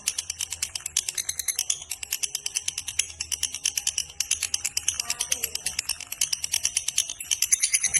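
Lovebird giving its long chattering trill (ngekek panjang): a rapid, unbroken run of shrill, high-pitched notes, many per second.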